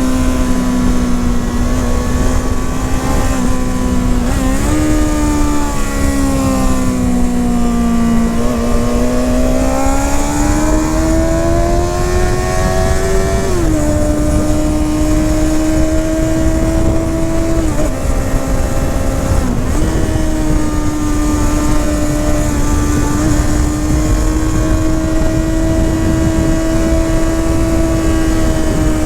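Honda CBR 650R's inline-four engine and exhaust under way at moderate revs. The note jumps up about four seconds in, climbs steadily for several seconds, then drops sharply, with two brief dips later before it settles steady again.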